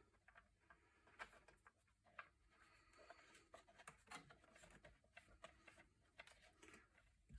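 Near silence: room tone with a few faint scattered clicks and light handling noises.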